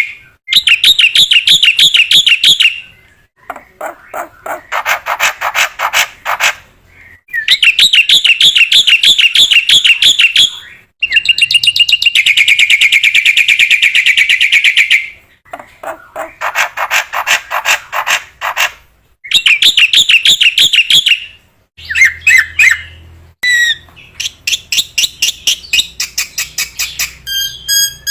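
Black-winged starling (jalak putih) singing loudly in long phrases of fast trills and rattling notes, each lasting a few seconds with short breaks between. Near the end comes a quick run of evenly repeated clear notes.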